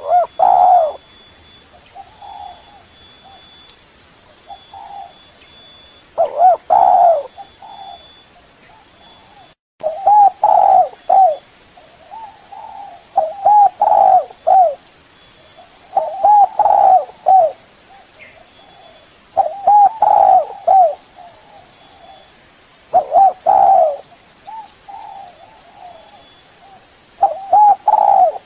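Spotted dove cooing: a string of low coo phrases, each of a few rising and falling notes, repeated every second or two, with a brief cut about a third of the way in. It is the bird's calling song, used as a lure to draw rival doves.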